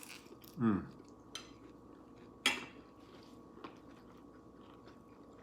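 A few light clicks of cutlery against a plate while eating, the sharpest about two and a half seconds in with a brief ring. Near the start there is a short hum of a voice falling in pitch.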